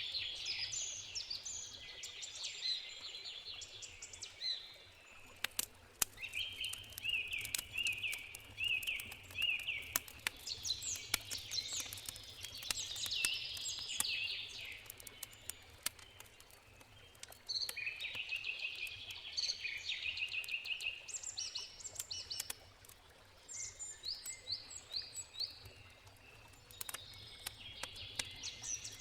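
Songbirds singing in short repeated phrases, over the sharp pops and crackles of a wood campfire.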